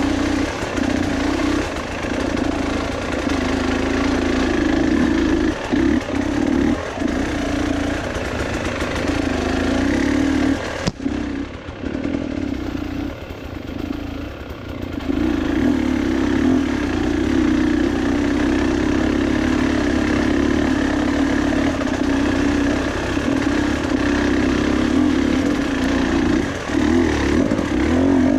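A vehicle engine running steadily while driven, easing off for a few seconds about eleven seconds in, then picking up again.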